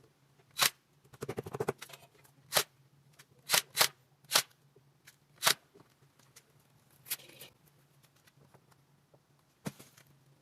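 A series of sharp, irregularly spaced knocks and clicks, with a quick rattling run about a second in, over a faint low steady hum.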